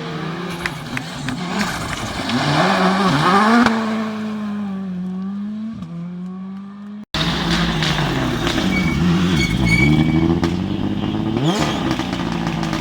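R5-class rally car engines, turbocharged four-cylinders, revving hard and shifting through the gears as the cars pass on a stage. The sound cuts off abruptly about seven seconds in and a second car picks up straight away, its revs rising and falling.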